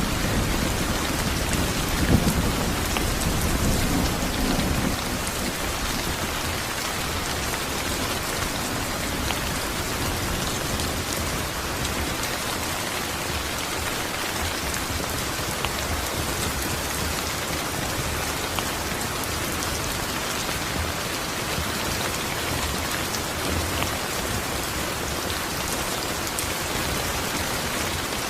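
Steady rain falling on surfaces, with a low rumble of thunder in the first few seconds.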